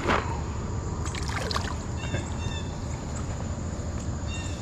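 Water splashing twice in a creek, over a steady low rush of flowing water, with short high chirps now and then.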